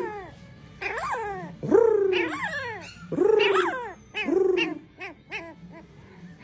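A dog giving a series of high, pitched yelping whines, each call rising and then falling in pitch: four longer calls followed by several short, quick ones.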